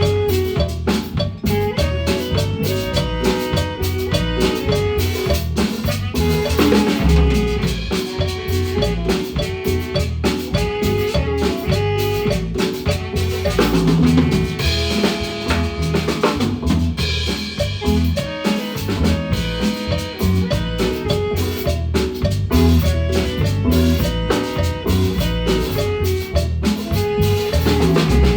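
Guatemalan marimba band playing with a drum kit: rapid marimba notes over steady snare and cymbal hits.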